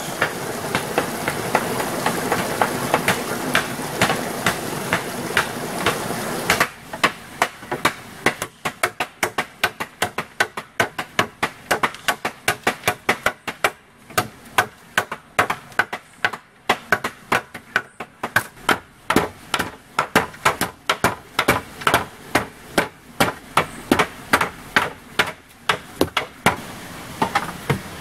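Hammering: a long run of sharp blows, about two or three a second. For the first several seconds a steady rushing noise lies under the blows and then stops abruptly.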